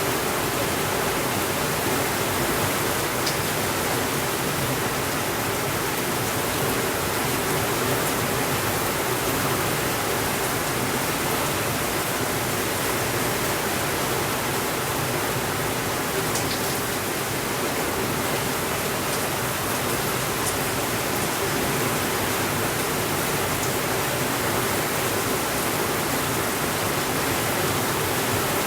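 Steady rainfall, an even hiss with no breaks or swells, with a few faint sharp ticks scattered through it.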